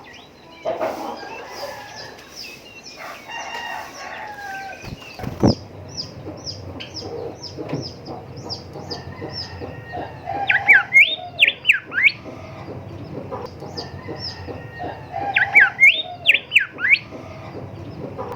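Golden whistler singing: two loud phrases of rapid up-and-down whistled sweeps, about five seconds apart, over a background of other bird calls.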